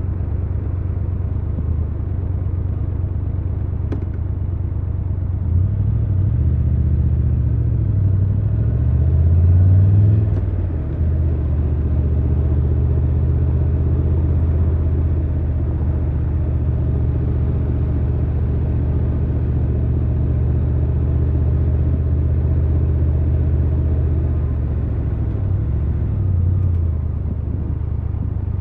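Triumph Tiger 1200 Rally Pro's inline three-cylinder engine running, its revs rising from about six seconds to a peak near ten seconds, then dropping suddenly and settling into a steady low note.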